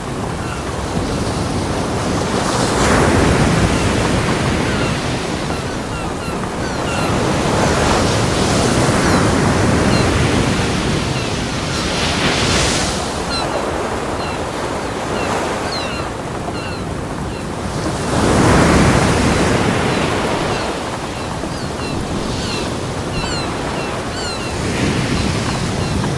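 Ocean surf breaking on a beach: a steady wash of water that swells with each incoming wave every few seconds, then ebbs.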